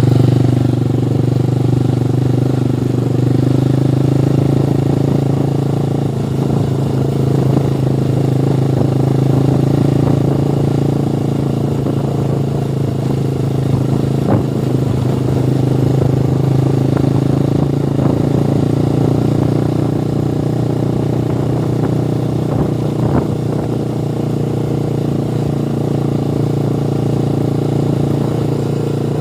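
Motorcycle engine running at a steady speed while riding, with a few faint knocks.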